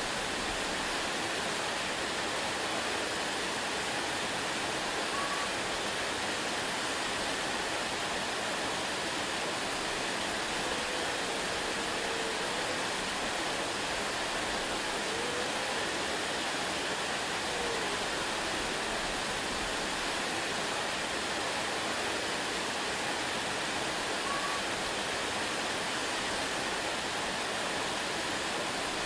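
Waterfall, a steady even rush of falling water with no change in level, and a few faint short rising-and-falling notes now and then.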